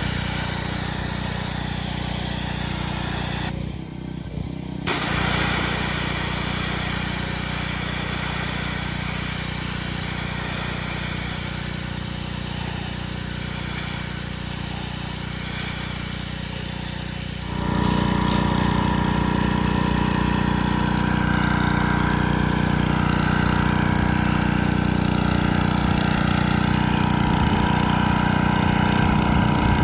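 Pressure washer engine running steadily with the hiss of spraying water. There is a brief break about four seconds in, and the sound gets louder a little past halfway.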